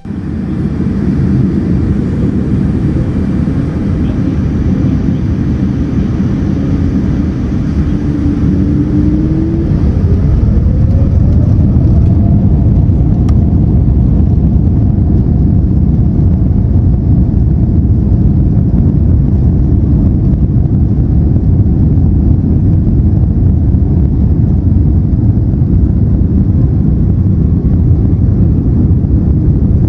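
Jet airliner engines running with a steady, loud rumble; a whine rises in pitch about nine seconds in and the noise grows a little louder as the engines spool up.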